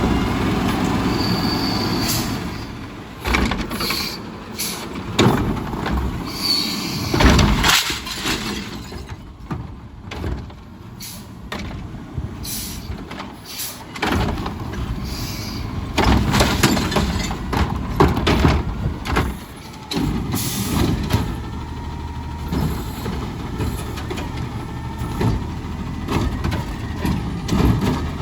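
Garbage truck at work on a collection route: its engine running, with a run of knocks and clatter about three to eight seconds in.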